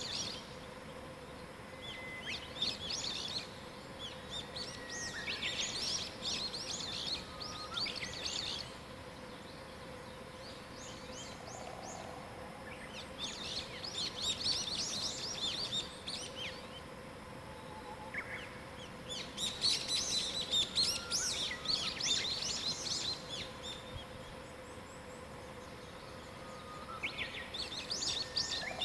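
Wild songbirds singing in a morning chorus: about five bursts of rapid, high chattering notes, each a few seconds long, with a few single whistled notes in between. A faint steady hum runs underneath.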